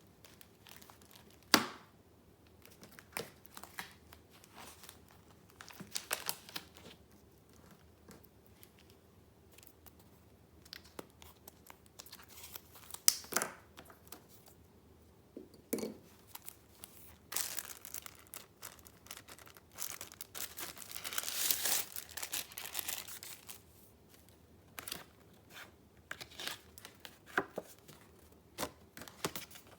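Paper being handled: sheets and junk-journal pages rustling and crinkling in short scattered bursts, with a few sharp clicks (the loudest about a second and a half in and again near the middle) and a longer, steady stretch of rustling about two-thirds of the way through.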